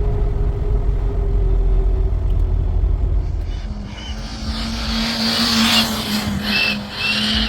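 Heavy motorcycle engines running. A deep steady rumble gives way, about three and a half seconds in, to a brighter, louder engine noise with a few short high squeals near the end.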